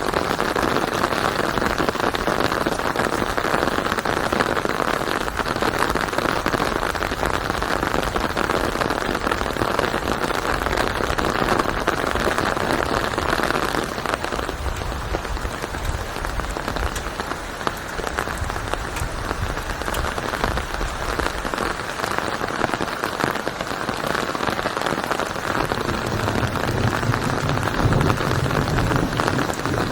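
Steady rain falling on a surface: a dense, even patter of many drops. A low rumble builds near the end.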